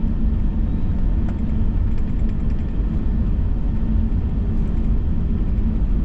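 Steady low rumble of an Airbus A321 heard from inside the passenger cabin, with a faint steady hum over it: the engines and airframe on the ground before takeoff, with no rise in power.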